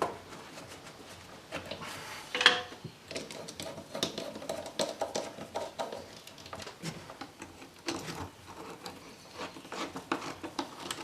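Hands working on car engine-bay parts: scattered clicks, knocks and rubbing of plastic and metal as hoses and connectors are handled and fitted, with one louder knock about two and a half seconds in.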